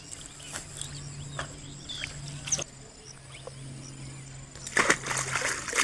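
Birds chirping a few times over a steady low hum, then about five seconds in a burst of splashing and sloshing water.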